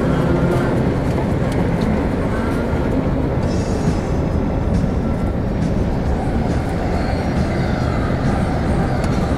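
Steady rumble of a moving passenger train, heard from inside the car.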